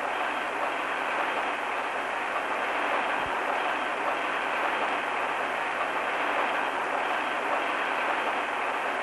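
Engine-room din of a large two-stroke crosshead marine diesel engine running: a dense, steady noise with no distinct beats.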